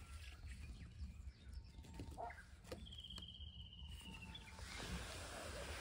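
Faint outdoor background with a bird's short trill a little past the middle, about a second long and falling slightly in pitch; a few soft rustles come shortly before it.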